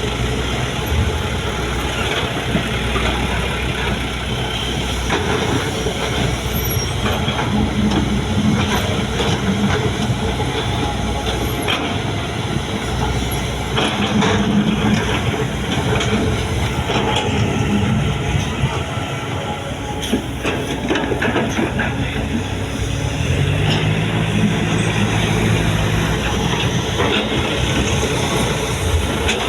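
Heavy diesel machinery running: an excavator and dump truck working, with a steady engine drone and scattered metallic clanks. The engine note rises for a few seconds a little past the two-thirds point.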